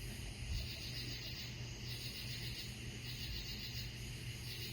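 A chorus of night insects, crickets, trilling high and faint, in pulsing bouts about a second long, over a low steady hum.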